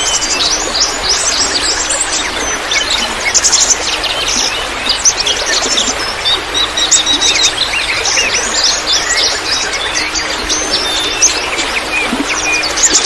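Many small songbirds chirping and trilling at once, in quick high, steep notes with no pause, over a steady trickle of running water.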